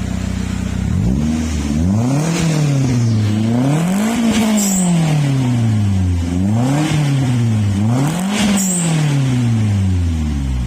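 Toyota Avanza engine revved through a newly fitted bolt-on racing exhaust. It idles steadily, then about a second in is blipped several times, each rev rising quickly and dropping back slowly, and it settles back to idle near the end.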